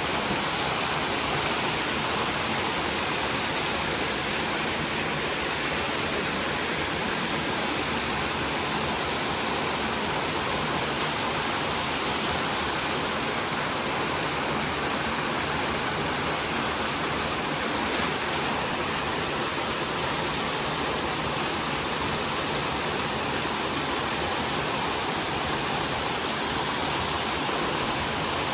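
Waterfall pouring over a rock cliff, a steady rushing hiss of falling water that does not change.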